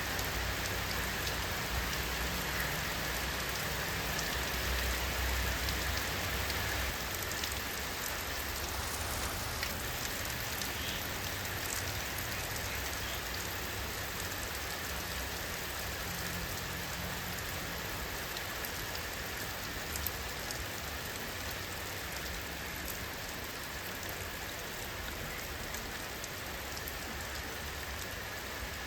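Steady rainfall: an even hiss with individual drops ticking on a surface, and a low rumble underneath during the first several seconds.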